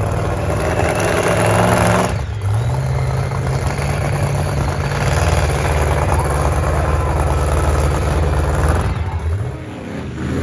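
Monster truck engine running hard at high revs, easing off briefly about two seconds in and again near the end.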